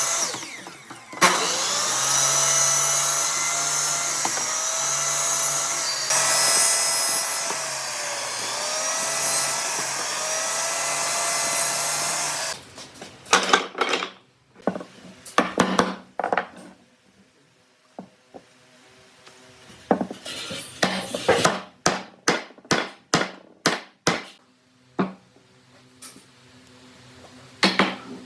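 A power tool runs on wood for about eleven seconds, its motor pitch dipping and recovering about every two seconds, then stops. A series of sharp knocks and taps follows.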